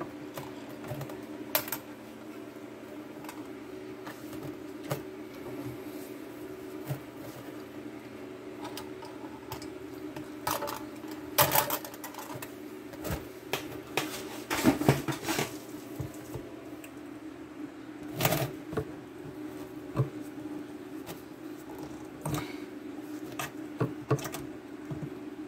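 Scattered clicks, taps and knocks over a steady low hum, busiest in the middle.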